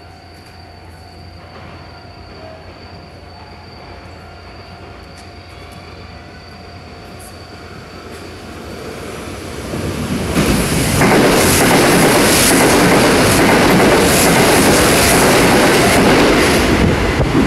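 Sanyo Electric Railway train approaching along the track and then running past the platform close by. Its sound is faint at first, swells about halfway through and becomes loud for the last third as the cars pass.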